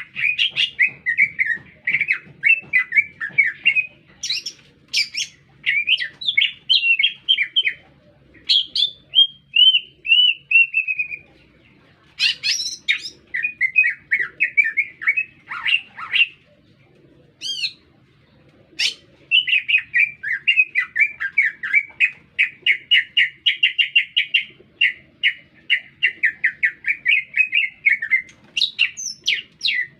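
Cucak ijo (green leafbird) singing a loud, continuous song of fast warbling and chattering notes. The song runs in long phrases, breaking off briefly a few times near the middle, including a couple of sharp single calls.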